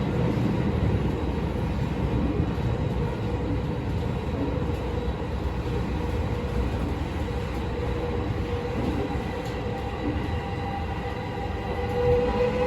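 Tokyo Metro 16000 series subway train running through a tunnel, heard from inside the car: a steady rumble of wheels on rail, with a whining tone coming in near the end.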